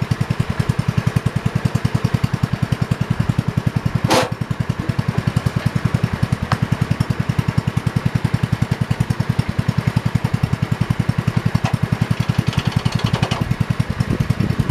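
A 1968 John Deere 110 garden tractor's engine running with an even, rapid putter. There is a sharp clack about four seconds in.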